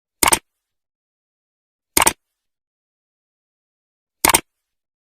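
Three short, sharp knocks about two seconds apart, each a quick double hit, with dead silence between.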